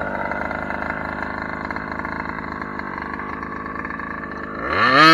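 Engine of a 1/5-scale Kraken Vekta.5 RC trophy truck idling steadily, then revving up sharply near the end and holding at a higher, louder pitch.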